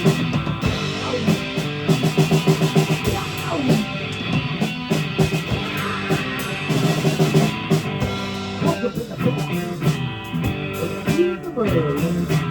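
Live rock band playing an instrumental passage between sung lines: guitar over a drum kit.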